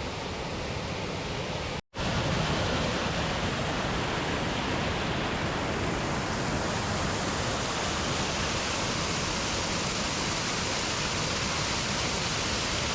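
Steady rushing roar of a waterfall, broken by a brief gap about two seconds in, then continuing a little louder.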